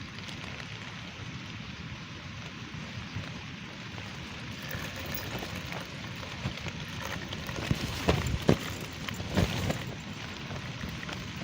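Steady rain falling, with a short run of louder, sharper taps and knocks about two-thirds of the way through.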